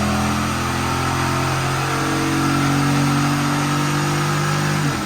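Dodge Durango R/T's 5.7 Hemi V8 running loud through its exhaust at a steady pitch, then dropping off sharply near the end.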